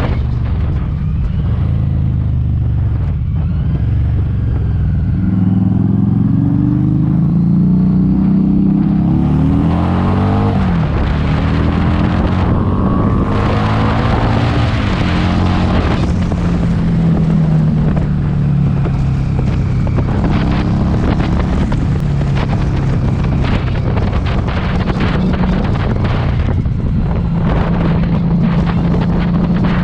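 Harley-Davidson Street 500's V-twin engine through a TAB Performance exhaust, pulling up through the gears: the pitch climbs, drops sharply at a shift, climbs again, then settles into steady cruising. Heavy wind buffets the helmet-mounted camera's built-in mic throughout.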